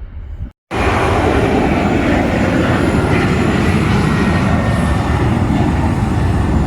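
Airliner engines running loud and steady at close range, cutting in abruptly after a brief silence about half a second in.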